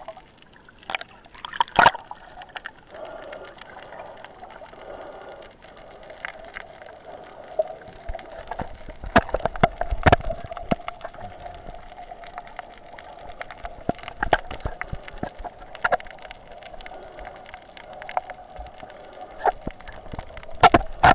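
Underwater sound picked up by a waterproof camera: water gurgling and moving around the camera, under a steady faint hum, with scattered sharp clicks and knocks.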